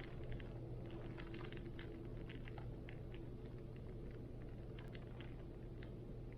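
Rain in heavy wind: scattered drops ticking irregularly over a steady low rumble.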